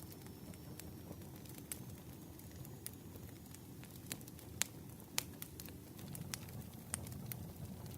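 Campfire crackling: irregular sharp pops and snaps of burning wood over a low, steady rumble, the loudest pops a little past halfway.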